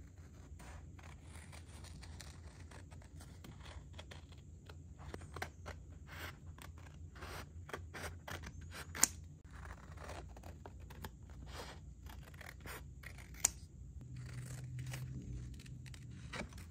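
Scissors snipping through a decal sheet covered in masking tape: a long run of short cuts, with two louder, sharper clicks of the blades partway through.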